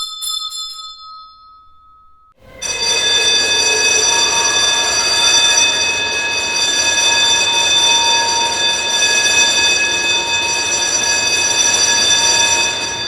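A bell's ring fades away over the first second or two. After a short pause, a bell starts ringing without a break, a steady metallic ring for about ten seconds that then dies away.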